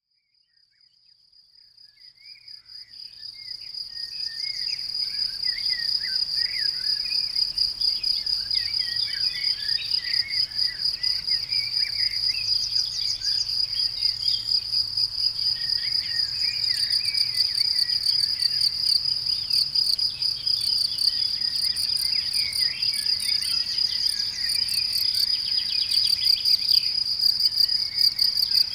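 Crickets trilling in a steady, high, rapidly pulsing chorus, with birds chirping and singing behind them. The sound fades in over the first few seconds.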